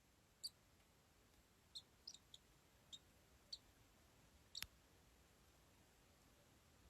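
Faint, short, high cheeps from swallow chicks in the nest, scattered irregularly about once a second, with a single sharp click about four and a half seconds in.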